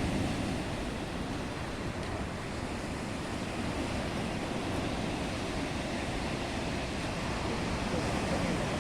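Black Sea surf in a storm: waves rolling in and breaking, a steady rush of water that swells a little near the end.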